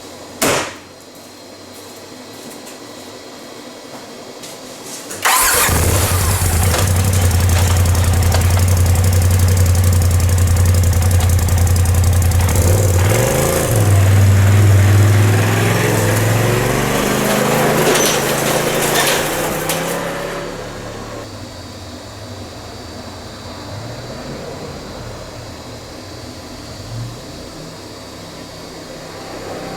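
A single knock, then an off-road vehicle's engine starts suddenly about five seconds in and runs. Its pitch rises and falls in a rev near the middle, and it settles to a quieter steady running sound. This is the test run after a blown CVT belt, with the primary clutch and the inner and outer CVT housings replaced.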